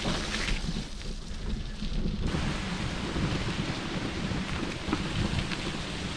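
Bicycle tyres rolling on a crushed-stone rail trail with wind buffeting the microphone in a steady low rumble; a louder hiss comes in about two seconds in.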